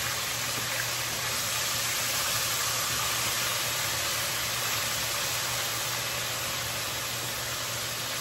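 Pork chops frying in a pan, a steady sizzling hiss.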